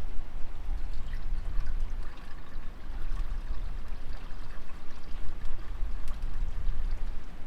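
Wind rumbling on the microphone, with light trickling and splashing water.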